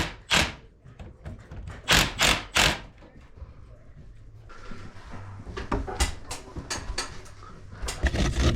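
Knocks and taps from work: three sharp knocks a third of a second apart about two seconds in, then a run of lighter clicks and taps in the second half.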